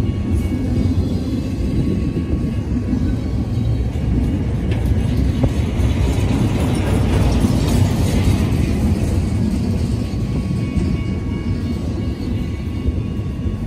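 Double-stack intermodal freight train of well cars rolling past at close range: a steady low rumble of wheels on rail, with a faint steady ringing tone and a few light clicks as the cars go by.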